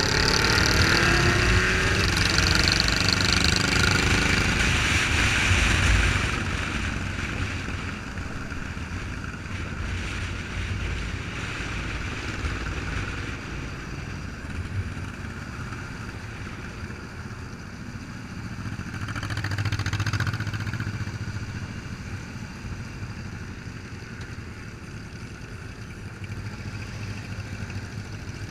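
Motorcycle engines running and revving, loudest through the first six seconds, then settling to a lower steady running. One engine swells and fades about twenty seconds in.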